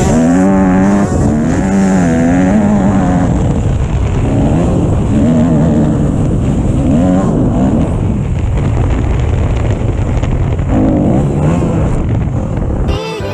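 Dirt bike engines revving, the pitch rising and falling again and again as the throttle is worked. The sound cuts off suddenly near the end.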